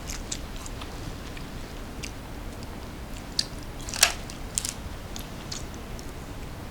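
Close-up biting and chewing of crunchy snack food: scattered crisp crunches, the loudest about four seconds in.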